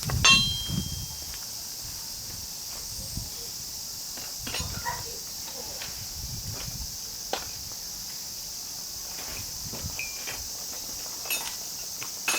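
Metal hand tools being rummaged through and handled: a loud metallic clank with a short ring just after the start, then scattered light knocks and clicks. A steady high chirring of crickets runs underneath.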